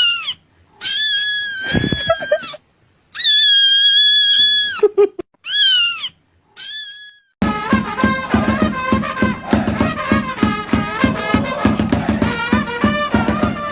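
A cat meowing five or six times, long high calls that bend down at their ends. About seven seconds in, upbeat music with a steady beat takes over.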